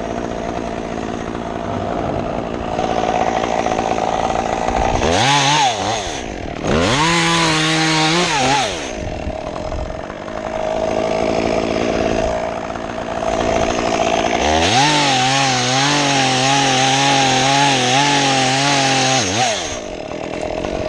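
Two-stroke chainsaw idling, then revved up twice about five to nine seconds in. From about fifteen seconds it is held at full throttle for some five seconds, its pitch dipping and recovering as it cuts, before dropping back to idle.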